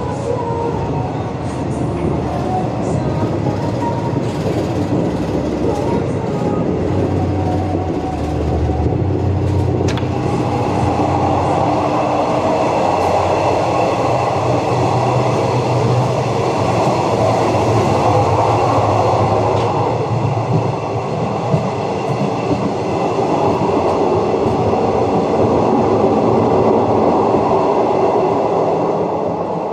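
Passenger train running along the track, a steady noise of wheels on rail, with one sharp click about ten seconds in.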